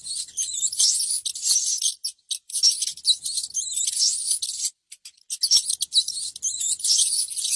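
High-pitched chirping and squeaking from a small animal, rapid calls with quick pitch glides in runs broken by brief pauses.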